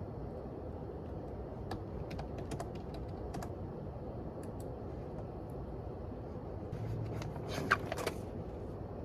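Scattered light clicks and taps over a steady low background hum, with a denser run of clicks about three-quarters of the way through, one sharper than the rest.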